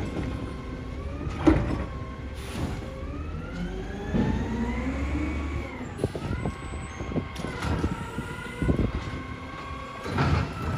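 Battle Motors garbage truck with a Heil Durapack Rapid Rail automated arm, its engine and hydraulics running with a whine that rises and falls in pitch as the arm cycles. Sharp knocks and clanks come through it, the loudest about a second and a half in.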